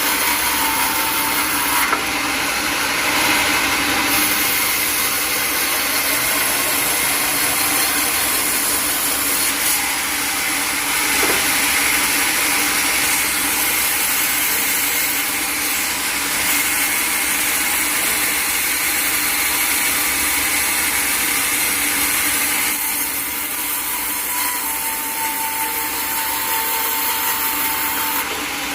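Sawmill saw cutting through a log: a loud, steady, noisy run with no breaks.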